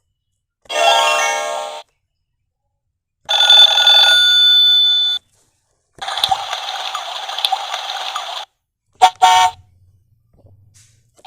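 A series of short recorded sound effects from a children's electronic learning toy, played one after another through its small speaker: four separate sounds with pauses between them, ending in two quick short blips.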